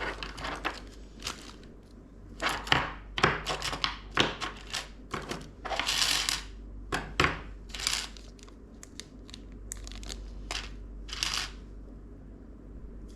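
Plastic and cardboard packaging being handled: irregular crinkling and rustling in short bursts, with a few light knocks, as computer parts are unpacked.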